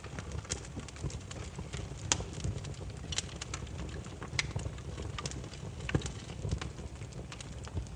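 Wood fire crackling: irregular sharp pops and snaps of burning firewood over a low, steady rumble of the flames, with two louder pops about two and six seconds in.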